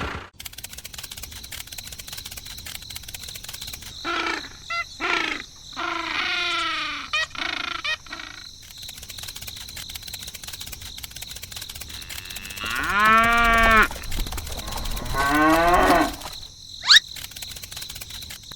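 Cattle mooing: a few short calls, then a long drawn-out moo near the middle and another soon after.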